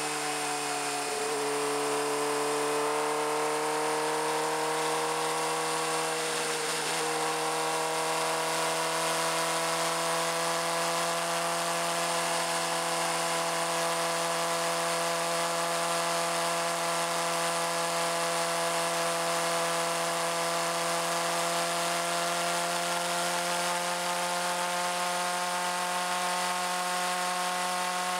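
Suzuki GSX-R600 inline-four engine running at steady riding revs, heard through a bike-mounted external mic. There is a brief gear change about a second in, and the revs climb slowly through the second half.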